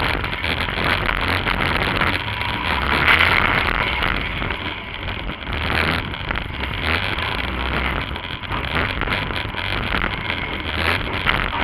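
Demolition-derby compact car's engine running, heard from inside the stripped car, rising and falling in level every few seconds, with many short rattles and knocks from the body.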